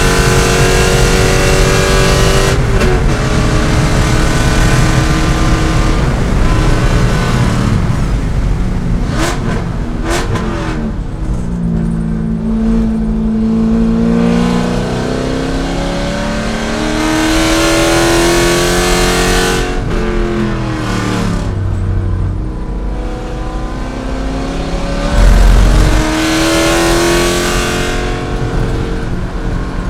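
C5 Corvette's V8 engine at racing speed, its note dropping sharply under braking and downshifts and then climbing back as the car accelerates, several times over. A heavy low thud comes about 25 seconds in.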